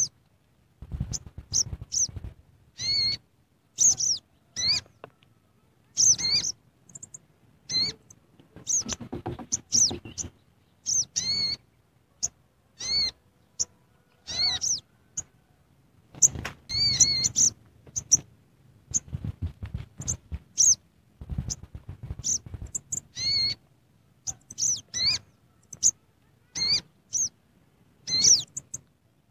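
A bird chirping over and over: short, sharply arched high calls, usually a second or two apart, sometimes in quick clusters, with dull low rumbling noise in between.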